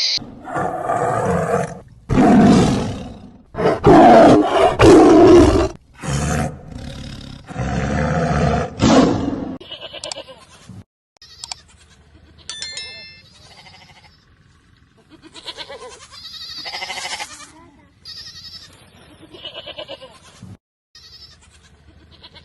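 A series of animal calls: loud, pitched calls one after another over the first half, then fainter, shorter calls with quiet gaps.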